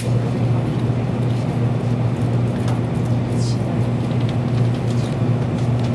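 Cabin running noise of a Kyushu Shinkansen Sakura train pulling into a station: a steady low hum with even rumble, and a faint brief high squeak about halfway.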